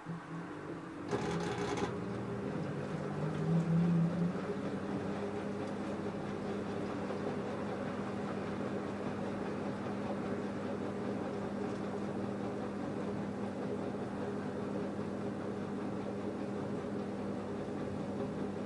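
LG F10A8HDS5 front-loading washing machine running: a steady motor hum starts about a second in with a short hiss, then holds level and stops near the end.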